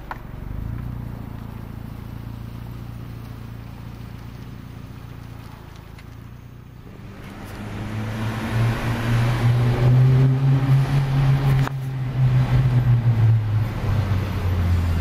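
1999 Audi A4 1.8T's turbocharged four-cylinder engine running at low revs, then pulling hard under acceleration from about seven seconds in, its note climbing and getting louder, with a brief break near twelve seconds before it pulls again.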